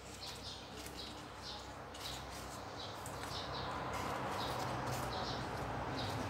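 A small bird chirping over and over, about two short chirps a second. Under it is a steady hum and rush that grows louder from about halfway through.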